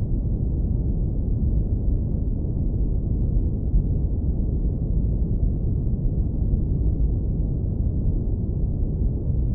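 Steady deep rumble of brown noise, low-pass filtered so that almost nothing is left above the lowest bass, with no change in level.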